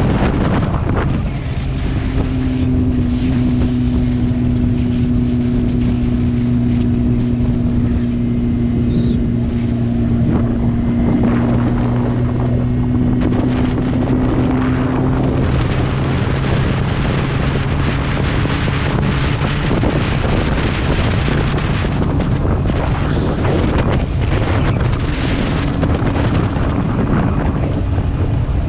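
Motorcycle engine running at a steady speed, with wind rushing over the microphone. The engine's hum holds one even pitch for the first half and then sinks into the wind noise.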